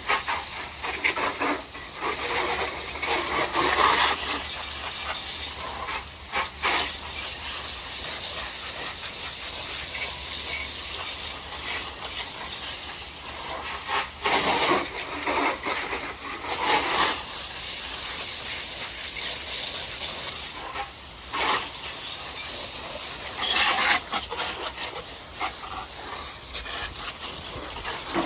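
Garden hose spraying water over a motorcycle with a steady hiss, with louder surges every few seconds as the spray moves.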